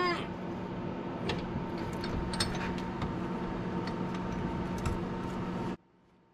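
A steady machine hum with scattered ticks and crackles, which cuts off abruptly near the end.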